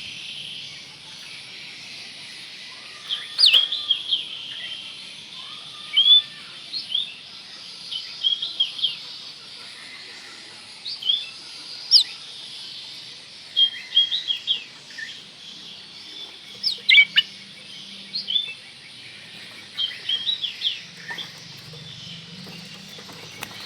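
Oriental magpie-robin singing: short, sharp whistled chirp phrases, one every second or two, over a steady hiss.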